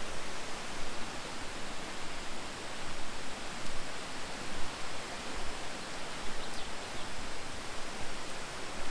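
Steady rushing of flowing water, an even hiss with no pauses.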